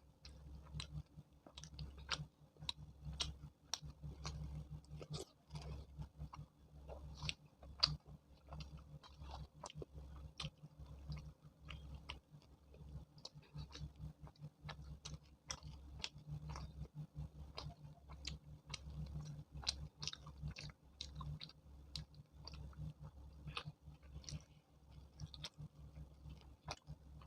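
Close-miked chewing of chole bhature and kurma: a steady run of soft, wet mouth clicks and smacks, several a second.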